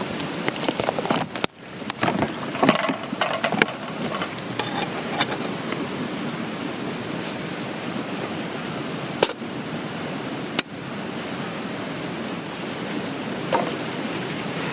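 Steady rush of flowing river water, with scattered light clicks and clinks over it and a sharper knock about nine seconds in.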